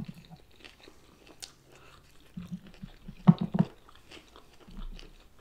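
People chewing and biting food close to the microphone: soft, wet mouth sounds and small clicks, loudest in a short cluster a little after halfway.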